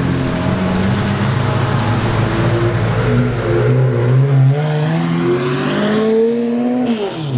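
Pagani Zonda HP Barchetta's Mercedes-AMG V12 accelerating away. Its engine note climbs steadily for several seconds, then falls sharply near the end.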